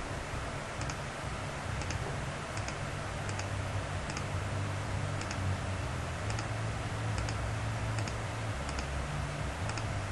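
Computer mouse clicking, light clicks in quick pairs about once a second at an uneven pace, over a steady low hum.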